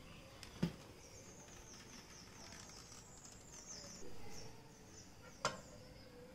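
Faint bird chirping in the background, with two sharp clicks, one about half a second in and another about five and a half seconds in.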